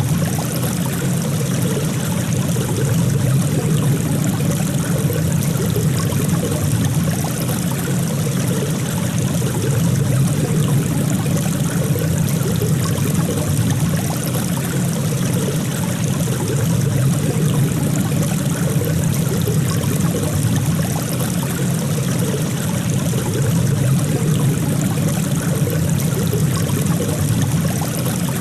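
Water flowing steadily, a continuous rushing and trickling like a stream, with no breaks or surges.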